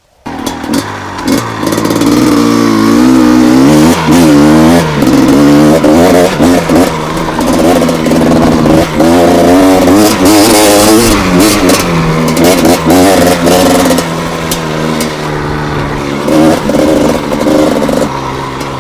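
Gas Gas EC250 single-cylinder two-stroke enduro engine starting, then revved up and down repeatedly with the throttle. It settles to a lower, steadier idle in the last few seconds.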